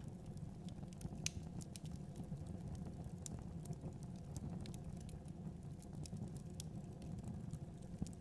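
Wood fire burning in a fireplace: a steady low rumble of flames with scattered sharp crackles and pops, the sharpest about a second in.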